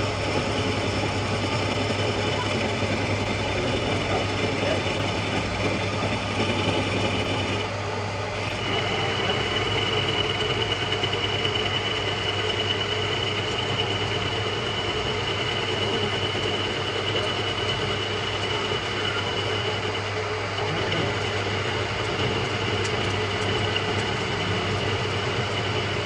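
Metal lathe running steadily, turning a steel impact socket. About eight seconds in, a high steady squeal sets in as the cutting tool works the metal, and it holds to the end.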